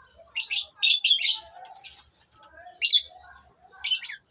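Lovebirds chirping: five loud, shrill, short calls, three close together in the first second and a half, then two more near the end, over softer, lower twittering.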